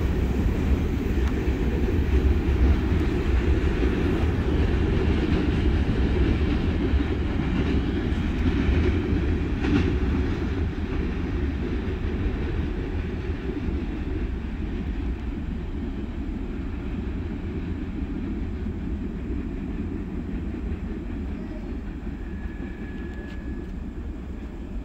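Covered hopper cars at the tail of a grain train rolling away on the track, a steady rumble of wheels on rail that fades gradually as the train recedes.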